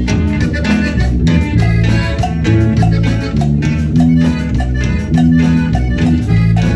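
Norteño band music: a reedy accordion-like melody over a bouncing bass line and a steady drum beat.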